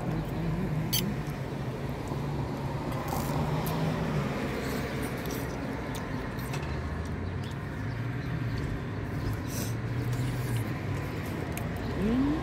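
Low, steady hum of a vehicle engine running, its pitch dropping partway through, with a few light clicks of eating utensils.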